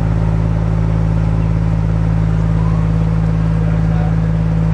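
Diesel locomotive engine idling, a steady low running hum.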